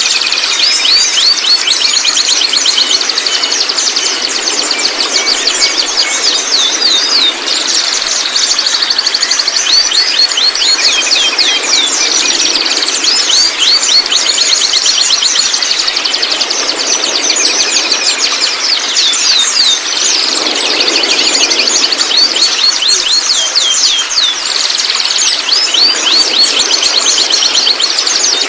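Juvenile white-rumped shama's rapid, unbroken twittering chatter: fast runs of high chirps and rattles with hardly a pause, the babbling song of a young shama still learning its song.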